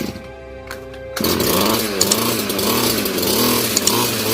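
A two-stroke grass cutter engine catches about a second in and runs unevenly, its speed surging up and down about twice a second. This fits a hard-starting engine that the owner finds is not getting fuel through to the carburetor.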